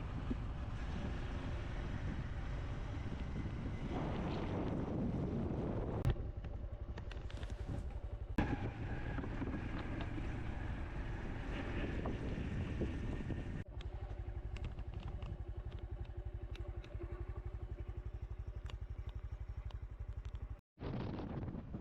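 Honda CT125's single-cylinder four-stroke engine running steadily as the motorcycle is ridden, with a few sharp knocks and rattles over the ride.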